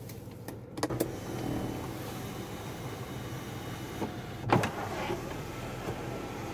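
Power sunroof motor of a 2017 Nissan Maxima running as the glass panel slides, with a click about a second in and one sharp knock about four and a half seconds in.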